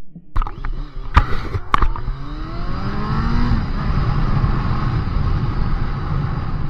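Motorcycle engine speeding up with a rising pitch, then a steady riding roar. Two sharp clicks come about a second in.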